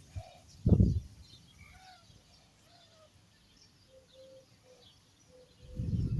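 Birds calling faintly outdoors, short scattered chirps and calls. Interrupted by two brief low rumbles, one about a second in and a longer one near the end.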